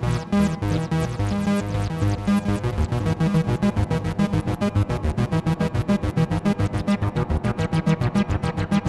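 Behringer TD-3-MO bass synthesizer playing a fast arpeggiated pattern through effects, short repeating notes that get quicker and more even about three seconds in.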